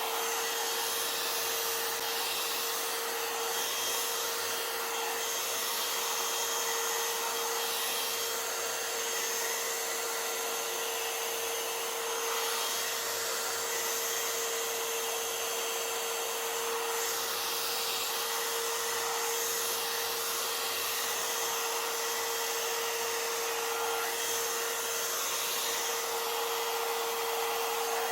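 Blow dryer comb running steadily: a rushing blast of air with a constant motor whine, a lot of noise.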